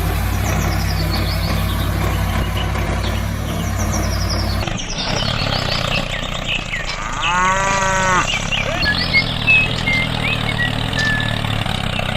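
A cow moos once, a single call of about a second, some seven seconds in, over an engine running steadily. Short chirps, likely birds, come and go above.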